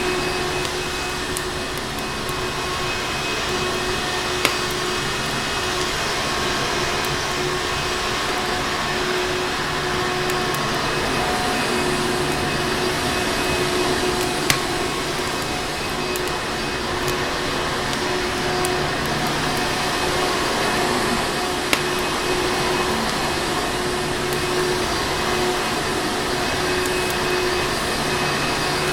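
Vacuum cleaner running steadily, a constant motor hum and rushing air with a few steady whining tones in it. A handful of sharp pops from a crackling fireplace fire stand out here and there, three of them clearly, about 4, 14 and 22 seconds in.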